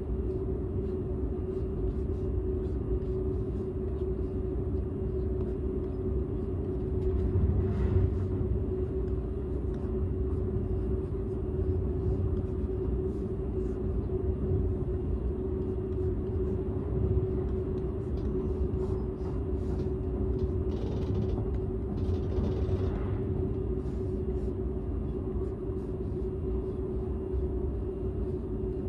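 Cabin sound inside a Seibu 001 series Laview limited express running on the line: a steady low rumble of wheels on rail under a constant hum. Brief louder swells of hiss come about 8 seconds in and again about 21 to 23 seconds in. The car is a non-motored driving trailer, so there is no traction motor whine.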